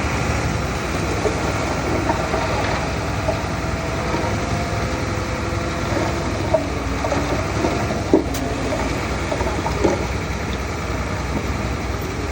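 Diesel engine of heavy earthmoving machinery running steadily, with three short sharp knocks in the second half.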